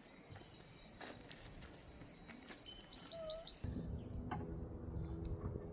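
Crickets chirping steadily in a high, even pulse, with a brief bird call about three seconds in. A low rumbling noise comes in a little before four seconds.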